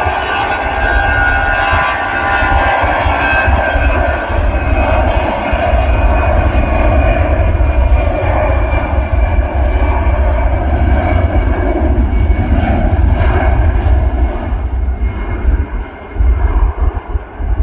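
Jet airliner's engines running at high power, a loud steady rumble with whining tones that slowly sink in pitch.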